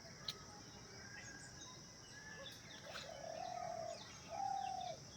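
Birds calling: scattered short chirps, then two louder drawn-out calls, the first about three seconds in and the second just after four seconds.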